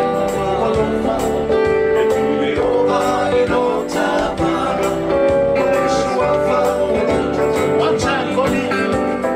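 Live Samoan song: singing over strummed guitar accompaniment with a steady beat.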